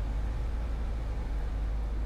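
Steady low drone and hiss of a Eurofox light aircraft's engine and propeller heard in the cockpit, on final approach to land.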